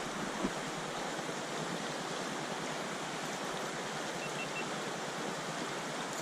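Rapids on the Flint River: shallow water rushing steadily over rocky shoals.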